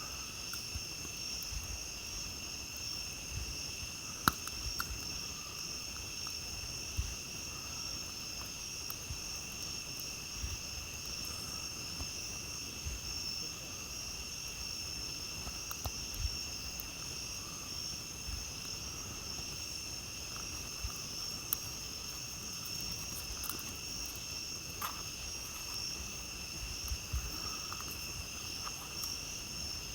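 A steady chorus of night insects trilling in two high pitch bands, with a few sharp crackles and pops from a wood campfire, the loudest about four seconds in.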